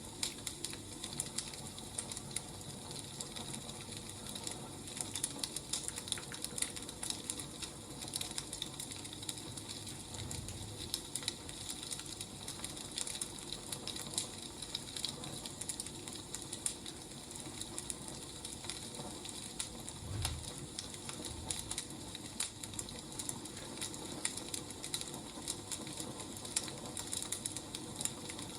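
Wood fire crackling: a steady run of irregular snaps and pops over a soft hiss, with a couple of low thuds about ten and twenty seconds in.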